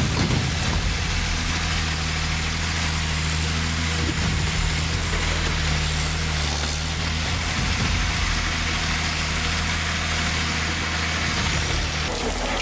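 Heavy forestry machine's engine running at a steady speed, with a steady hiss over it.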